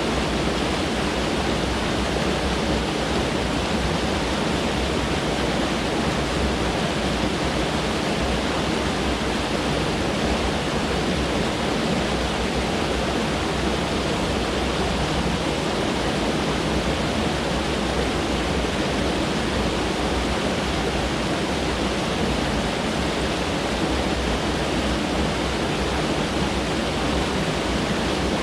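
Mountain stream flowing over rocks, a steady, unbroken rush of water.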